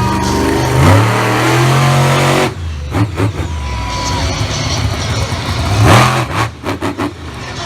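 Monster truck engine revving hard, climbing in pitch for about two and a half seconds before it cuts off suddenly, then blipping in short, uneven revs with a loud burst about six seconds in.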